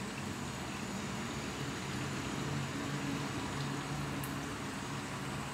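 Chilli paste frying slowly in oil in a wok: a soft, steady sizzle and bubbling over a low, steady hum.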